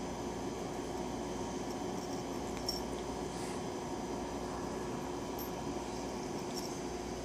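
Steady room hum, like a fan or air conditioner, with a couple of faint light ticks.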